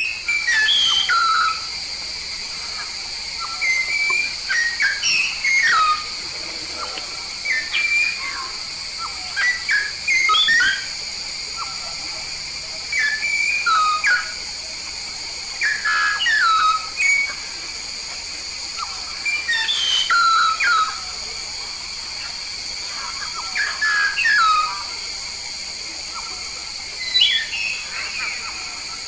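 Papuan myna (jalak paru kuning) calling in repeated bouts of short, loud whistled notes and sharp downward-sliding whistles, a burst every second or two. A steady high-pitched whine runs underneath throughout.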